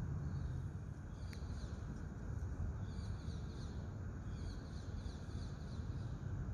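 A bird calling in three quick bursts of short, high chirps, over a low steady rumble of background noise.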